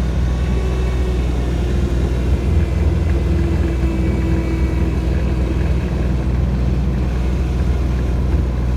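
Tractor engine running steadily as it drives along, a deep continuous rumble heard from aboard the tractor.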